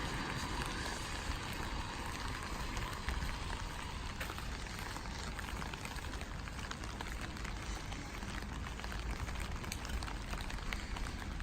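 Steady rain falling, with many small raindrop ticks through it. The sound of a passing vehicle fades out in the first second.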